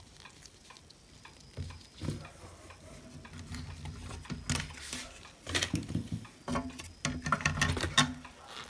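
Hands working the parts and cable of a Lukey 852D+ hot air rework station as it is taken apart: irregular clicks, light knocks and rustling, busier and louder in the second half.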